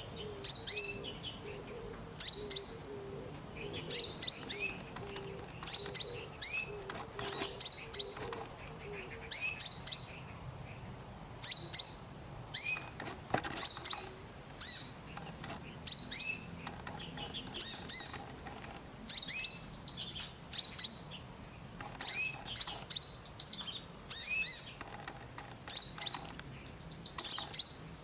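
Small cage bird, a sunbird of the kind kept as a 'kolibri ninja', giving short high chirps about once a second, each a sharp note with a quick falling tail.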